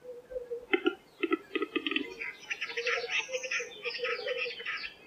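Male western capercaillie's display song: double clicks that quicken, running about two seconds in into a dense, rapid scraping phrase, the whetting phase of the song.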